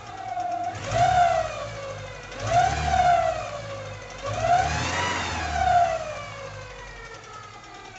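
Mazda 626 GC engine revved three times, its pitch rising and falling with each rev before settling back toward idle near the end. It carries a connecting-rod knock from the first cylinder, which the owner puts down to a pressed-out (spun) rod bearing shell.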